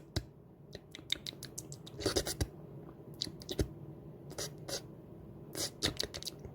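A small bird pecking and sipping: irregular sharp beak clicks and taps, some in quick clusters, with light scratching.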